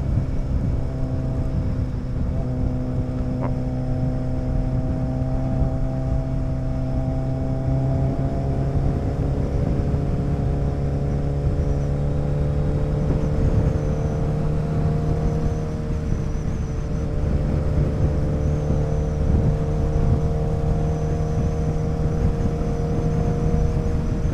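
Motorcycle engine running at a steady cruise, its pitch creeping up slightly over the first half, with wind rumble on the microphone.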